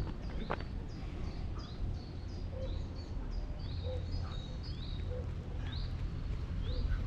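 Birds chirping: many quick high notes repeated over and over, with a lower short call coming back about every second, over a steady low rumble.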